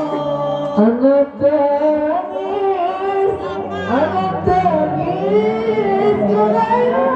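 A man singing a slow, ornamented melody, his voice bending and gliding between held notes.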